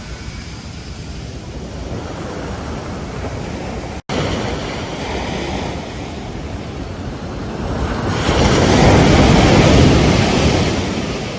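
Ocean surf washing onto a beach: a steady rush of water, cut by a brief drop-out about four seconds in. Near the end a wave breaks and surges, the loudest part, before fading away.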